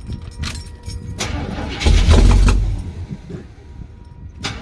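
Square-body Suburban's carbureted engine cold-started: a jingle of keys, then the starter cranks and the engine fires up loudly about two seconds in, only to die away again without staying running.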